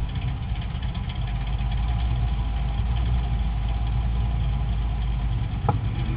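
Drag-racing truck's engine idling with a deep, uneven rumble that begins abruptly.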